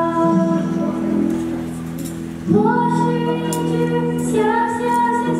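Youth choir singing in unison with long held notes. The sound dips, then a new phrase comes in loudly about two and a half seconds in.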